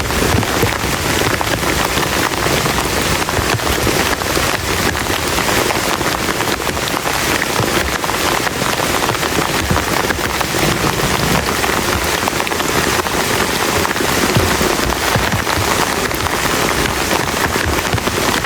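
Heavy rain falling steadily, a dense patter of drops striking a surface close by.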